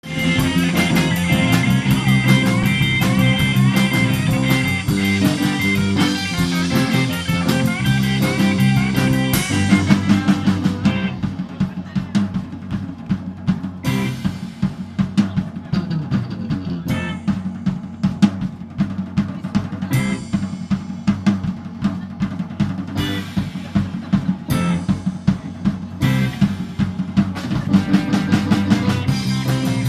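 Rock music with a drum kit and guitar. About nine seconds in, the dense full-band sound thins out to a steady drum beat with cymbal crashes every few seconds.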